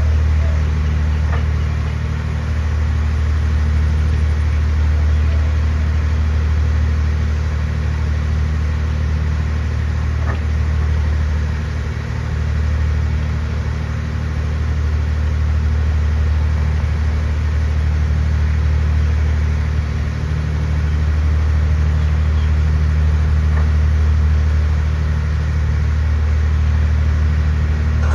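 Passenger ferry's diesel engine running steadily, a low drone.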